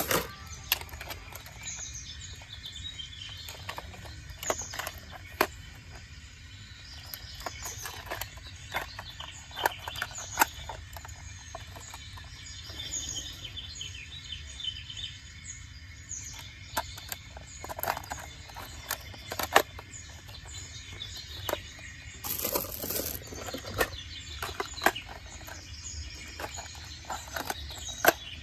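Small birds chirping over a steady outdoor background noise, with scattered sharp clicks and knocks.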